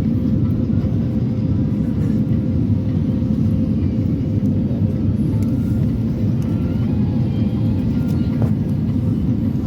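Steady engine and airflow rumble inside a passenger jet's cabin, with a faint steady tone running through it.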